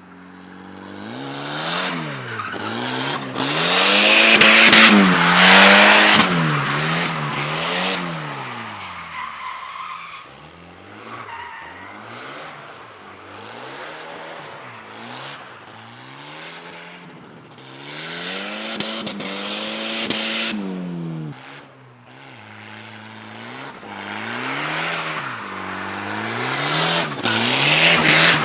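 A turbo Volvo 740 drift car's engine revving up and falling back again and again while its tires squeal and skid. The squeal is loudest a few seconds in, again around the middle, and near the end.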